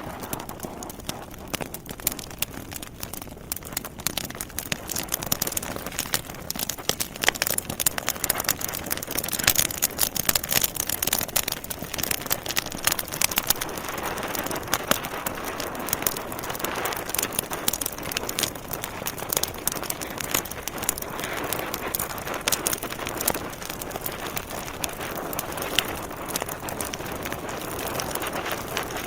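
Wood fire burning in a fireplace: logs crackling with many sharp pops over a steady hiss, the popping busiest about a third of the way through.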